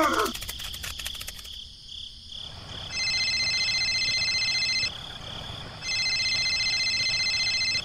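Insects trilling: two loud, steady high trills of about two seconds each, a second apart, over faint chirping that pulses about three times a second.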